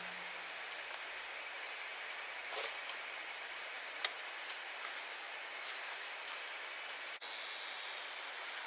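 Insects chirping in a loud, rapidly pulsing high-pitched chorus, which cuts off abruptly about seven seconds in, leaving a fainter hiss with a few soft ticks.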